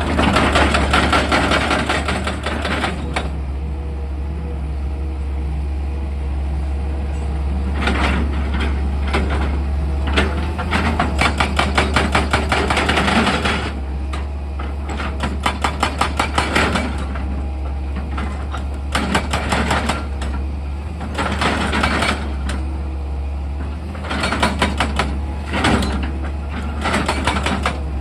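Excavator engine humming steadily under repeated bursts of rapid percussive hammering from a hydraulic attachment working rock, roughly ten blows a second. Each burst lasts one to three seconds, with the longest about halfway through.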